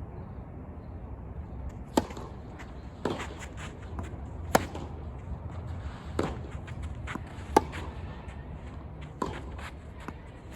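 Tennis ball hit back and forth in a rally: sharp racket strikes about every one and a half seconds, with quieter ball bounces between them.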